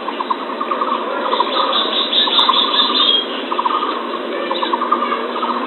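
Bird calls from a lure recording: short, quick trills repeating over and over above a steady hiss, with a brief higher chatter partway through.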